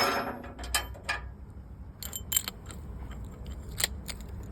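A hard metal-on-metal strike with a ringing tail, like a hammer hitting steel, followed by two lighter knocks within about a second, then scattered small metallic clinks and taps.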